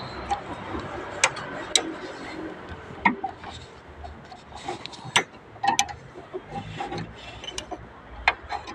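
Scattered sharp clicks and light clinks of hand-tool work, irregularly spaced, with faint rubbing and scraping between them.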